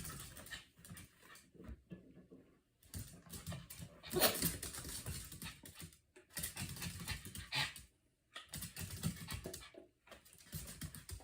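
A pet eating soft, wet food from a bowl: quick runs of wet chewing and lapping clicks, broken by short pauses.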